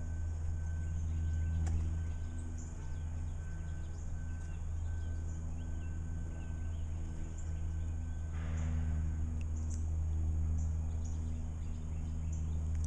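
Small birds chirping in short, high, repeated calls over a steady low hum, with a brief rushing noise about eight seconds in.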